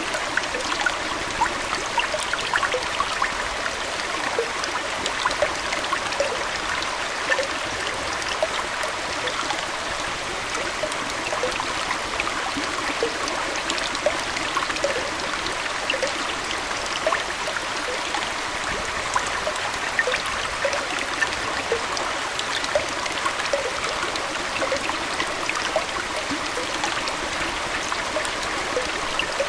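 Aquarium water flowing and trickling steadily, with many small bubbling plinks.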